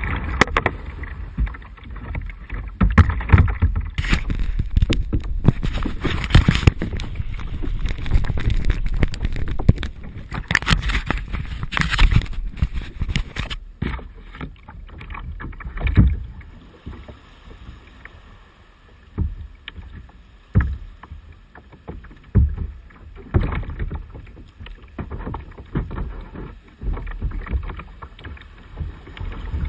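Paddling a Hunter Fishing kayak while standing: irregular splashes and knocks of paddle strokes in the water, with low rumbling. The splashing is busier in the first half and sparser later.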